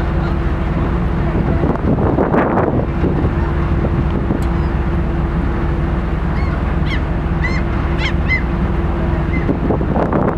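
Gulls calling: a quick series of short, sharp cries about six to eight seconds in, over the steady hum of a boat's engine and wind buffeting the microphone.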